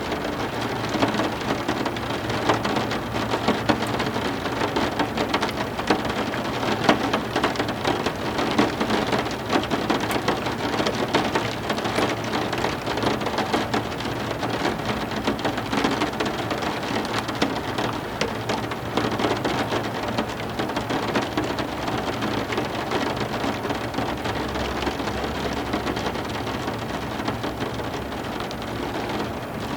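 Heavy rain falling steadily: a dense, even hiss with many separate drops pattering on surfaces.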